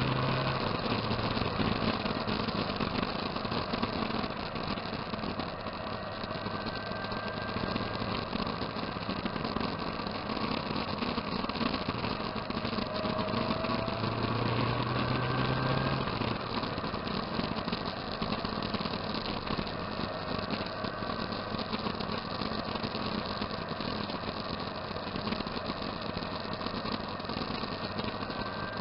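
Motorcycle engines running, mostly at idle, with a low engine note that swells for a couple of seconds near the start and again about halfway through.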